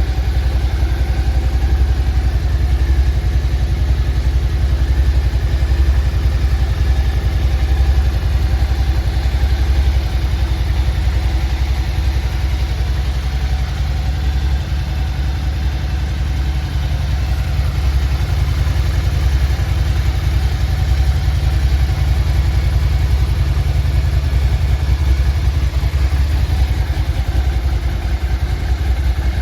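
Suzuki SV650's 645 cc 90-degree V-twin idling steadily, with a deep, even exhaust note and no revving.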